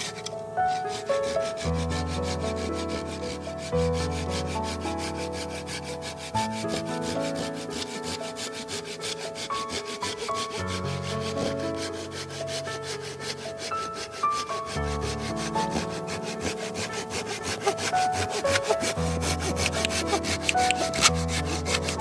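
Hand saw cutting through a log, fast rasping strokes, over background music with a slow melody and bass line.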